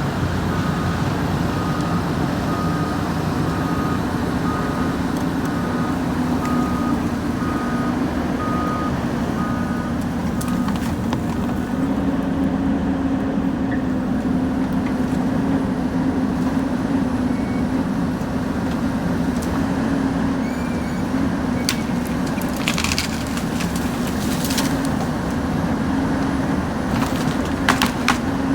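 Heavy logging machinery running steadily at one pitch, with a backup alarm beeping at short even intervals for about the first ten seconds and again at the very end. A few sharp cracks or knocks come in the last third.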